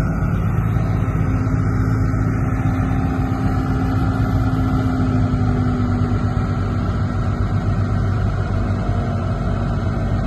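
Diesel engine of heavy earthmoving machinery running steadily, holding a constant pitch with a deep hum.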